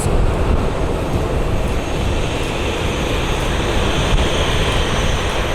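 Jet airliner engine noise: a steady rush with a faint high whine.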